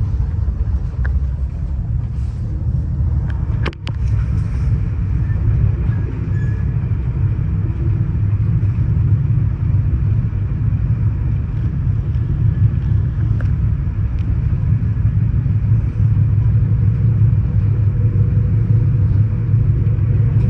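Steady low rumble of a passenger train under way, heard from inside a sleeping car: wheels and running gear on the rails. One sharp click a little under four seconds in.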